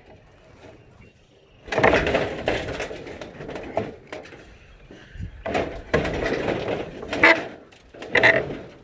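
Three bursts of crashing and clattering, the loudest about two seconds in: old shed boards and scrap being broken up and thrown.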